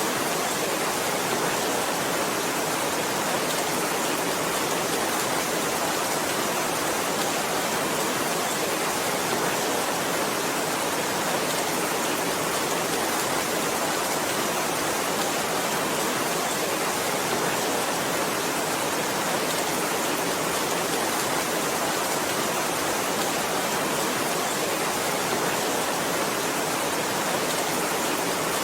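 Heavy rain falling as a steady, even hiss, with no single drops, thunder or changes standing out.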